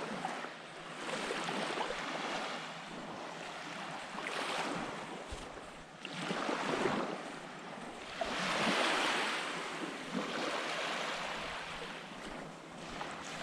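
Small waves washing onto a beach, the wash swelling and fading every few seconds.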